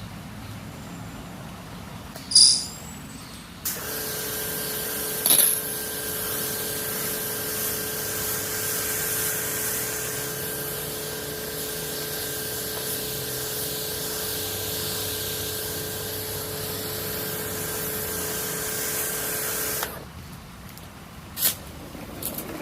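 A sharp click, then a Kärcher lithium-ion battery pressure washer starts about four seconds in and runs for about sixteen seconds, spraying with a steady motor whine and a hiss of water. It cuts off suddenly near the end, followed by another click.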